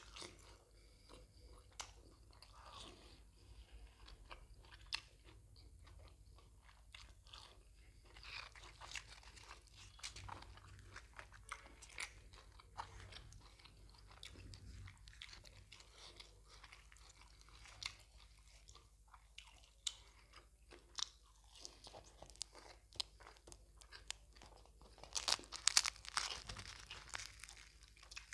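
Close-miked chewing of mutton tripe (botti) curry and puri: a steady run of small wet mouth clicks and smacks, busiest and loudest near the end.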